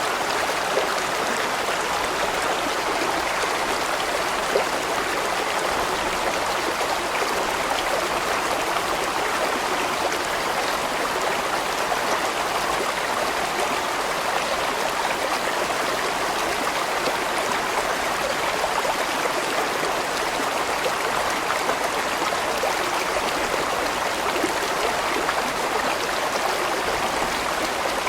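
Large stream rushing and gurgling steadily over rocks, an even constant wash of water.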